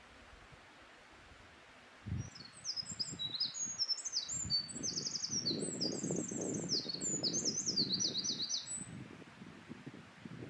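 Eurasian wren singing one long, high, rapid song of tumbling notes and fast trills, lasting about six seconds. An uneven low rumble runs underneath.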